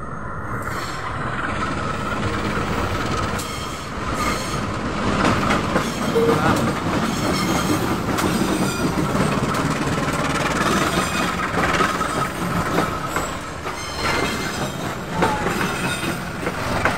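Diesel locomotive hauling passenger coaches passing close by. The locomotive's engine runs as it goes past, then the coaches roll by with their wheels clicking over the rail joints.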